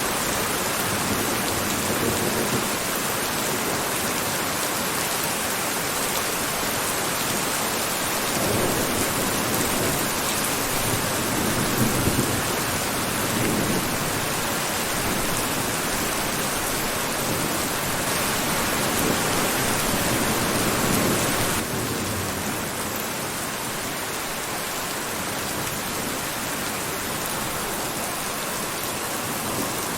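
Steady heavy rain hiss, with a few low rumbles of distant thunder. It gets slightly quieter about two-thirds of the way through.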